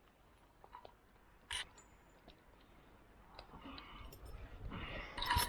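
Metal climbing hardware and rope being handled while a line is released: a few light clicks and one sharp metallic click about a second and a half in, then rustling that builds, ending in a jangle of carabiners clinking together near the end.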